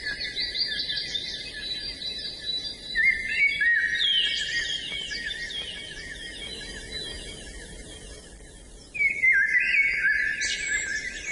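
Several songbirds singing at once, a dense chorus of quick overlapping chirps and trills that grows suddenly louder about nine seconds in.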